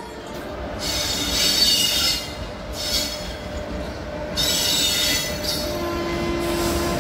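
An Indian Railways WAP-4 electric locomotive and its coaches roll over curving track and points with a low rumble. Steel wheels squeal high-pitched in repeated bursts, about four times.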